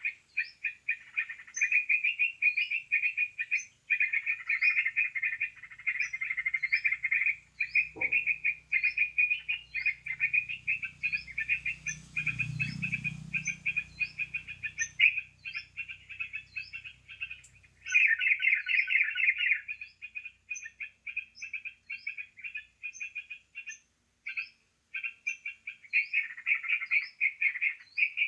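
Yellow-vented bulbul (trucukan) lure calls: a dense, continuous chattering with brief gaps, overlaid with short high rising chirps repeating about once a second.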